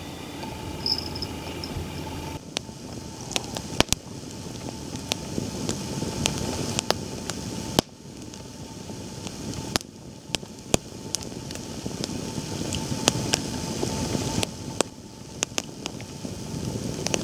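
Wood campfire crackling, with irregular sharp pops, over rushing wind noise that swells and eases.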